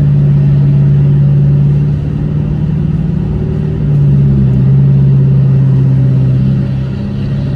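Loud, steady exhaust rumble from a car engine, its low pitch shifting a few times.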